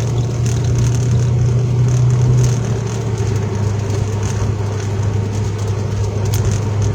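Car engine and road noise heard from inside the cabin while driving: a steady low drone that eases slightly about two and a half seconds in.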